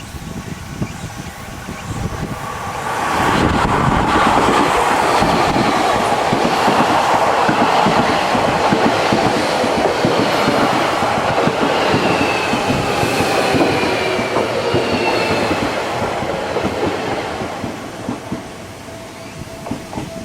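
Seibu 40000-series electric train pulling into a station: wheels clicking over rail joints as the cars pass, growing loud about three seconds in. A faint falling whine is heard in the middle as the train slows, and the sound eases off near the end as it comes to a stop.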